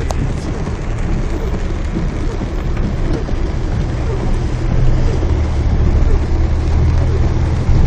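Heavy rain falling on a car, heard from inside the cabin, over the steady low rumble of the car driving along a flooded street.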